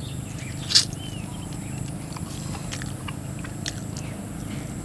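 Close-up eating sounds of people chewing mouthfuls of stir-fried eel and rice, with wet lip smacks and a few sharp clicks; the loudest click comes about a second in.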